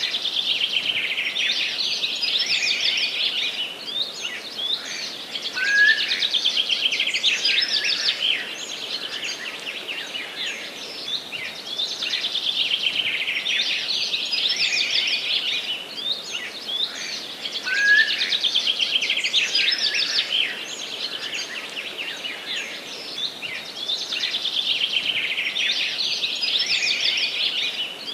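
Forest birdsong: fast, high trilled phrases that come back about every six seconds, with a short rising note twice.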